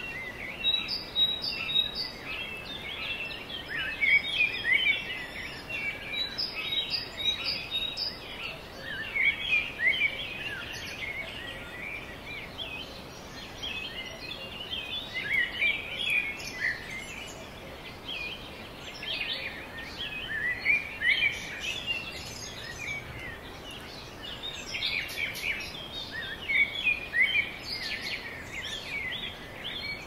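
Many birds chirping and calling in quick, overlapping short notes, over a steady background hiss of outdoor noise.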